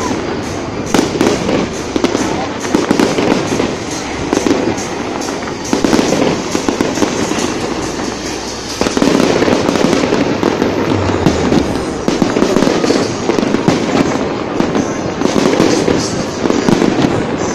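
Fireworks display going off: aerial shells bursting with a continuous dense crackle of bangs, growing louder and busier about halfway through.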